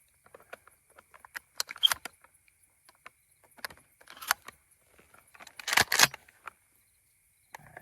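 Shotgun shells clicking and rattling as they are handled and loaded, in scattered short bursts with the loudest cluster about six seconds in.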